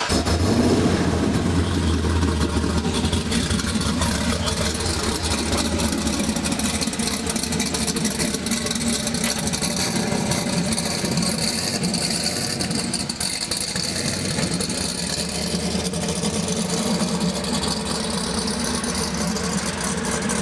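Car engine running steadily at idle just after being started, a little louder in the first couple of seconds.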